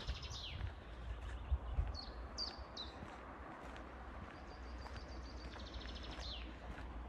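A songbird sings a high trill that ends in a falling note, three short falling chirps, and then a second trill with a falling end. Under it, footsteps crunch along a gravel path over a steady low rumble, with a couple of heavier thuds a second and a half in.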